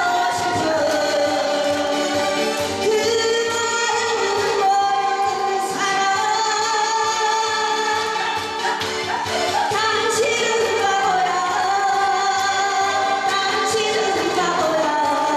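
A woman singing a song over musical accompaniment with a steady beat, her voice sliding between long held notes.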